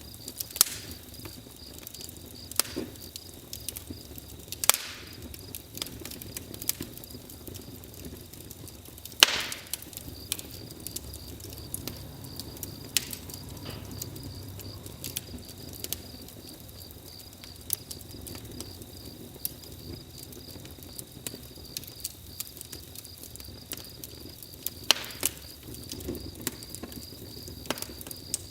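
Campfire crackling, with irregular sharp pops of burning wood and a few louder snaps, the loudest about nine seconds in. Crickets chirp steadily behind it.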